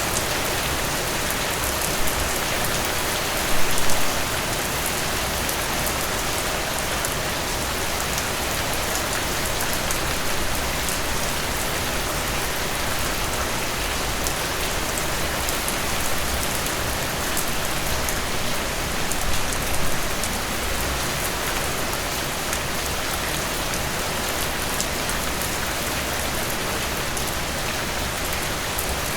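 Steady heavy rain falling on a surface, a dense even hiss with scattered drop ticks, briefly louder twice.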